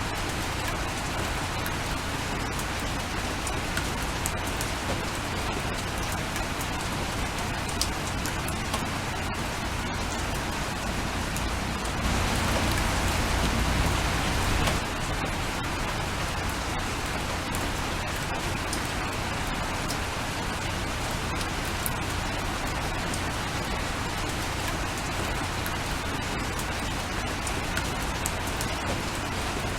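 Steady rainfall with the fine patter of individual drops. About twelve seconds in it swells louder and fuller for roughly three seconds, then drops back sharply to the steady level.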